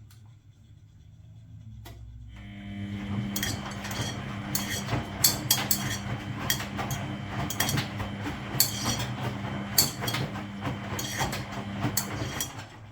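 Front-loading washing machine turning its drum during a wash: a steady motor hum starts about two seconds in, with many irregular clinks and knocks from the tumbling load, and stops near the end.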